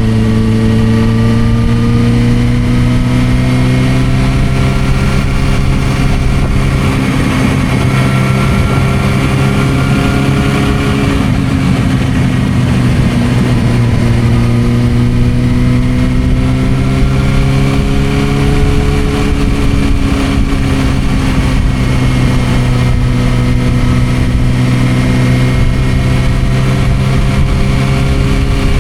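Suzuki GSR600 inline-four engine with an aftermarket Dominator exhaust running steadily under way. Its pitch rises gently several times and falls back as the throttle is rolled on and off.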